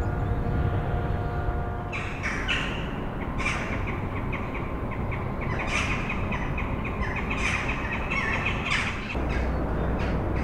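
Birds calling: a run of short, repeated calls from about two seconds in that stops near the end, over a steady low rumble.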